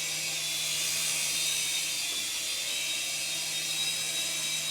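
Syma S107 micro RC helicopter in flight: its small electric motors and coaxial rotors give a steady, high-pitched whine.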